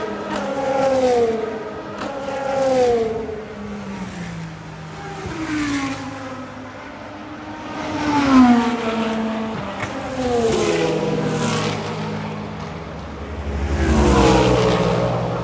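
Hypercar prototype race cars passing one after another at speed. Each engine note drops in pitch as the car goes by, with a louder, deeper pass near the end.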